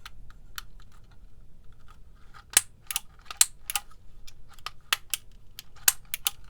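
Manual label maker clicking sharply and irregularly as its handle is squeezed again and again to feed the label tape, the loudest clicks coming in quick runs from about two and a half seconds in. The tape is feeding but not coming out where expected, a sign that it is misrouted inside the machine.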